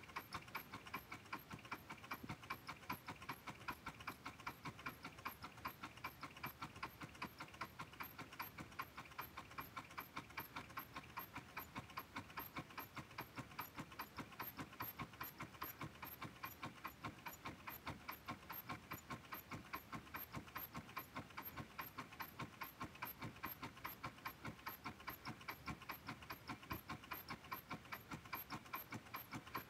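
Homemade Stirling engine running, its moving parts clicking in a steady, fast, even rhythm.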